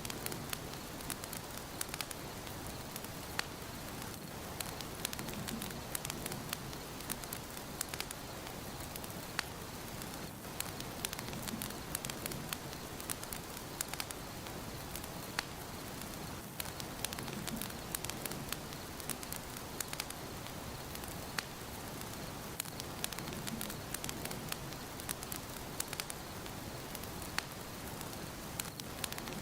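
Fireplace fire crackling: a steady hiss of flames with frequent sharp pops and snaps scattered irregularly throughout.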